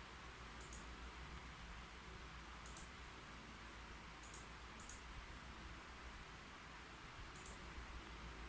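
A few faint, sharp desk clicks, five in all, spaced unevenly over a steady low hiss.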